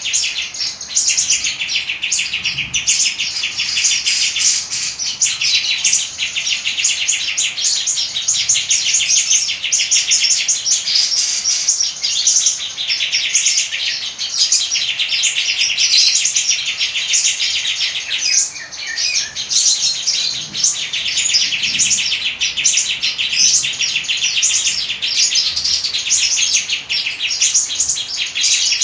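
Cage-bird song in the aggressive 'fighter' style: fast, continuous trills and chattering notes, high-pitched, in long phrases with a couple of short breaks. A song of this kind is played to provoke silent birds into singing.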